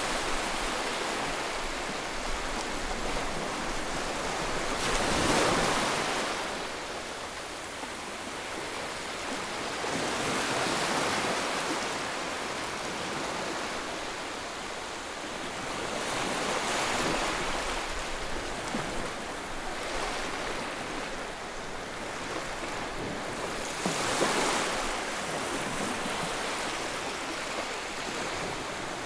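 Ocean waves washing in with a steady hiss. The hiss swells as each wave breaks, about every six seconds.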